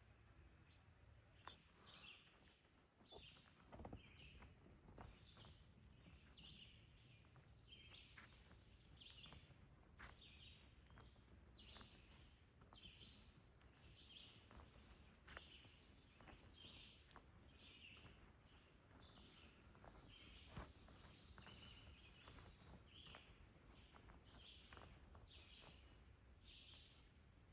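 Faint birdsong: short chirping phrases repeating about once a second over a low background rumble, with a few scattered clicks.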